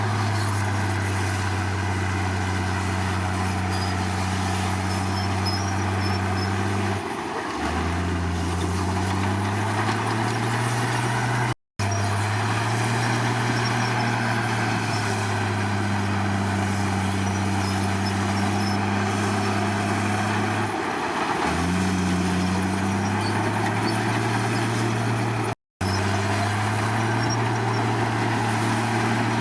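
Komatsu D53 bulldozer's diesel engine running steadily at working speed. Twice, about seven and twenty-one seconds in, its pitch sags and then climbs back up, and the sound cuts out for a split second twice.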